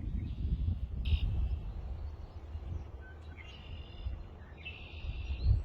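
Birds give several short, harsh calls, about four in all, over a low rumble of wind on the microphone.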